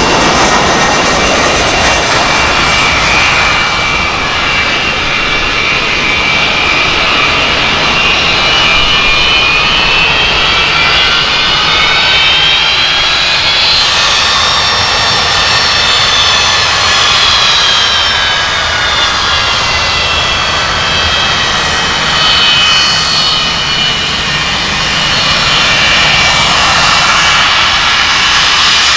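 Jet airliner engines passing close by. The fan whine climbs in pitch to a peak about halfway through, then falls away as the aircraft goes past, over a steady jet rumble.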